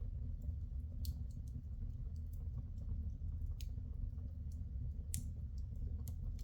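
Wood fire in a fireplace crackling, with a few sharp pops, the loudest about five seconds in, over a steady low rumble.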